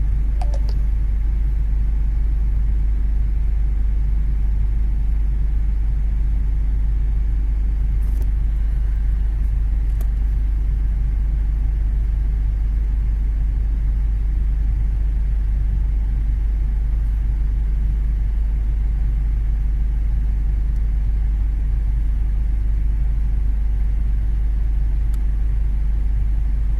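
Common-rail diesel engine idling steadily, an even low rumble with no change in speed.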